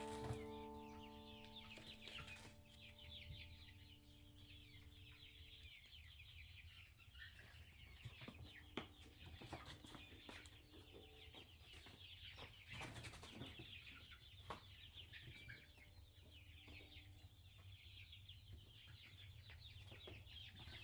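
Faint chickens clucking now and then over a steady twittering of small birds. The last notes of a tune ring out and fade over the first few seconds.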